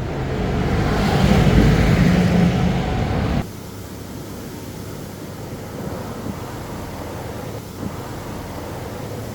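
A motor vehicle passing close, its engine and road noise swelling and then breaking off suddenly a little over three seconds in, followed by a quieter steady background of outdoor noise.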